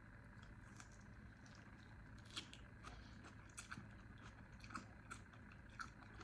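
Quiet chewing of pho noodles, with scattered small wet mouth clicks and a few louder ones, over a faint steady room hum.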